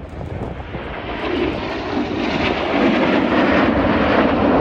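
Jet roar from the Red Arrows' BAE Hawk T1 jet trainers making a display pass. It grows steadily louder over the first three seconds as they approach, then holds loud.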